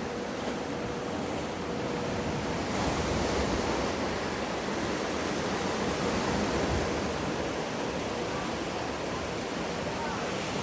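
Wave-pool water rushing and surging in a steady wash, growing brighter and a little louder about three seconds in.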